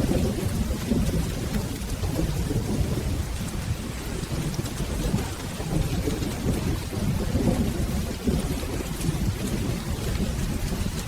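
Steady rain falling with a continuous low rumble of rolling thunder.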